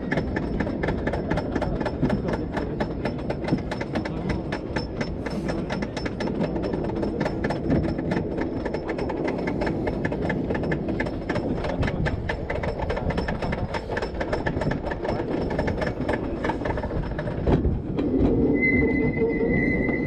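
Wooden roller coaster train (CCI's Tonnerre de Zeus) running along its wooden track: a dense, rapid clatter of wheels over track joints over a steady rumble. Near the end the clatter stops and a few steady tones take over.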